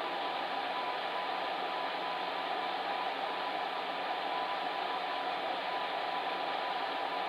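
Electric fan heater running steadily: an even rushing of blown air with a faint steady hum.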